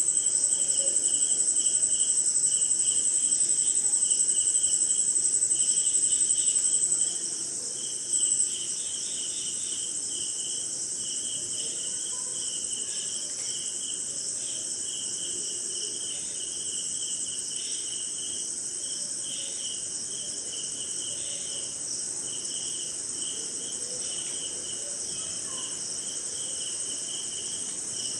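Night chorus of crickets and other insects: a loud, steady, high-pitched trill stops about seven seconds in, comes back for a moment, then the chorus goes on quieter. Under it runs a lower, rapidly repeated chirping throughout.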